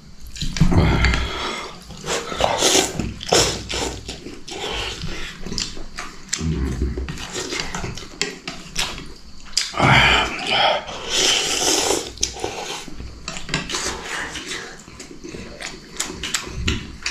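A man eating close to the microphone: slurping noodles and chewing, with scattered small clicks and knocks.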